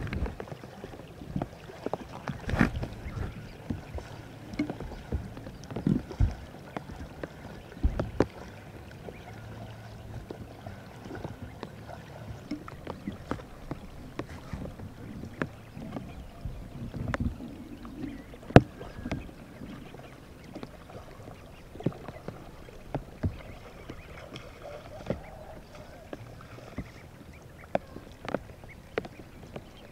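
Water splashing and sloshing, with irregular sharp knocks and clicks scattered throughout and a few heavier thumps near the start.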